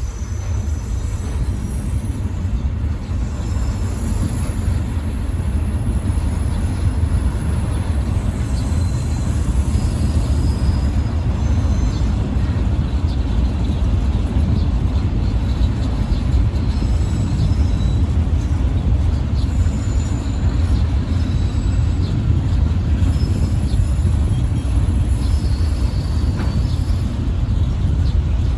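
Diesel locomotive running nearby with a steady low rumble.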